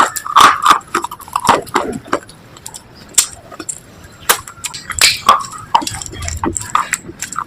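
Slate pieces being bitten and chewed close to the microphone: irregular sharp crunches and snaps, loudest in a cluster at the start and again about five seconds in.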